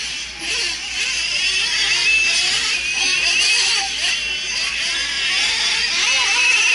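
Several nitro RC trucks' small two-stroke glow engines running at high revs together. Their high-pitched whines rise and fall, overlapping, as the trucks accelerate and brake around the track.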